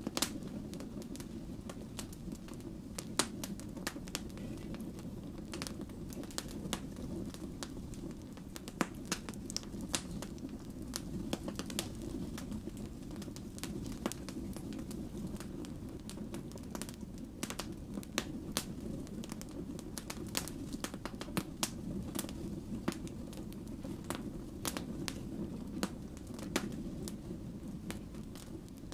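Wood fire burning: a steady low roar of flames with frequent irregular crackles and pops from the burning logs.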